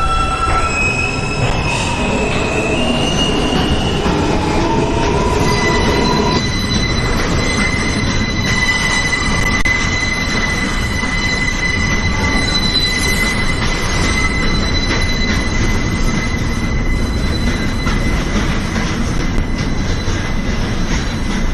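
Subway train under way: the traction motors give a stepped, rising whine as it accelerates, then the wheels squeal on the rails in a steady high tone for about ten seconds over the constant rumble of the car.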